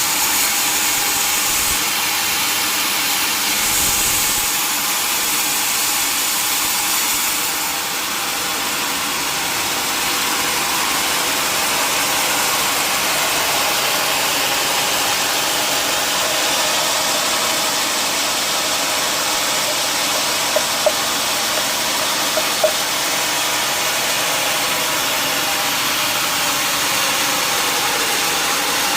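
Sawmill machinery running steadily. The first eight seconds or so are brighter and hissier, then it settles to an even running noise, with a few short clicks about twenty seconds in.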